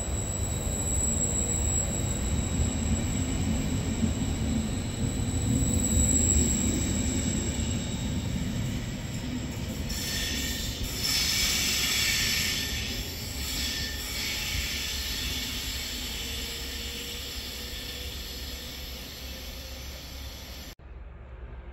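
Regional train of Vivalto double-deck coaches with an E464 electric locomotive pulling out of the station. The coaches roll past with a steady rumble and a thin high whine. From about ten seconds in, a high wheel squeal rises for a few seconds as the tail passes, then the sound fades as the train draws away and cuts off abruptly near the end.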